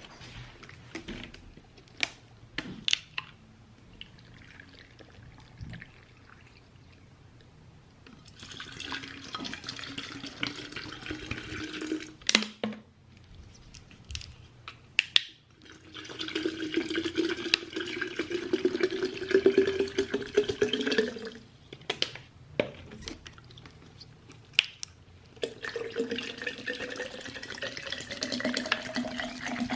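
Water running from a tap into a glass pitcher in three spells, its pitch rising as the pitcher fills, with clinks and knocks of glass being handled in between.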